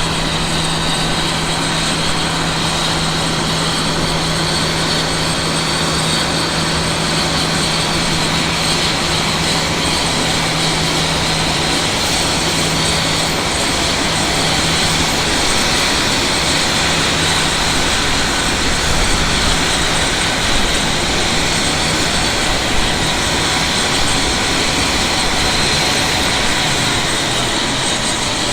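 Cessna Citation X business jet's turbofan engines running, a loud steady rush with a high whine over it; a low hum underneath fades out about halfway through.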